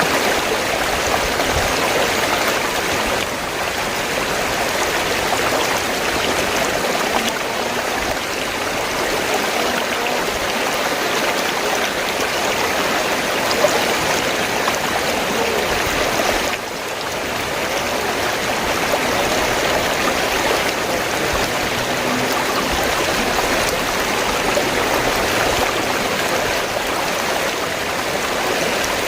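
River water flowing steadily as an even rushing noise, with a slight drop in level about halfway through.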